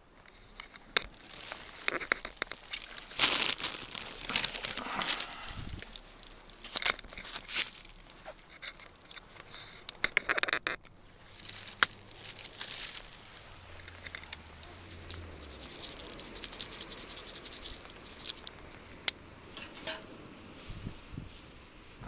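Irregular rustling, crinkling and knocking of objects being handled, with sharp clicks throughout.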